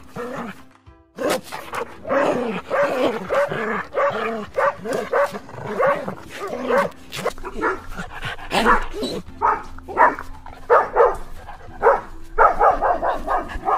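Dogs barking, many short barks and yips in quick succession, over background music.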